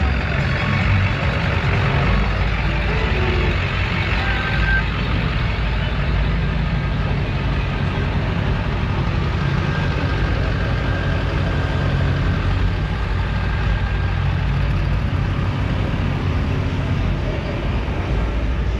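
Truck engine running steadily with a low, even hum, over general outdoor background noise.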